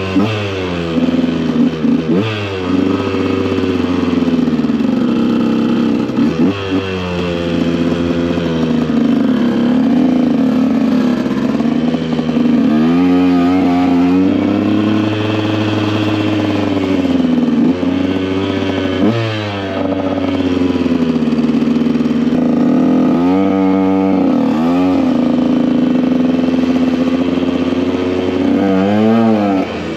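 KTM EXC 125 two-stroke motorcycle engine running under way, its pitch holding for long stretches and rising and falling with the throttle. Several short bursts of quick up-and-down revving come about thirteen, nineteen, twenty-three and twenty-nine seconds in.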